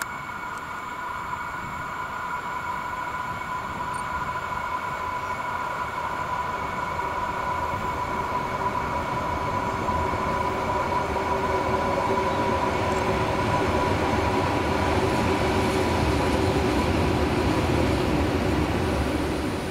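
EN57 electric multiple unit running into the station and past close by, getting steadily louder as it approaches. A rumble of wheels on rail is topped by a steady high whine.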